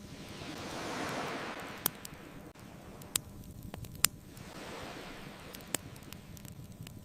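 Ocean waves washing in twice, each swelling and fading, under a crackling wood fire that gives a few sharp pops, the loudest about two and four seconds in.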